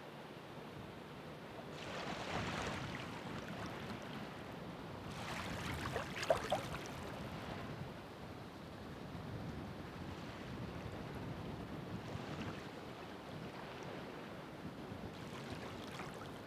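Ocean waves washing in, each swell of surf rising and falling a few seconds apart over a steady background hiss, the loudest wave about six seconds in with a brief sharper splash.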